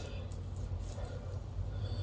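A few faint mouth clicks of someone chewing food, over a steady low rumble.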